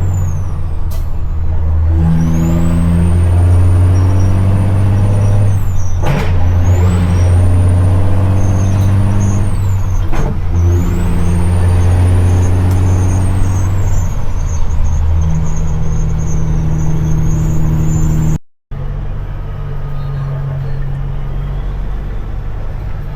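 CAT C-15 diesel engine in a dump truck running loud and steady, with a high turbo whistle that rises and falls twice. There are two short breaks in the engine sound about 6 and 10 seconds in. After a cut near the end the engine is quieter.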